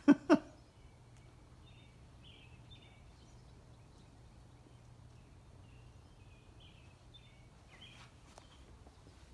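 Ford Mustang 5.0 V8, just rebuilt, idling fast and steady, heard as a faint low hum, with faint bird chirps over it. Two short, loud sounds come right at the start.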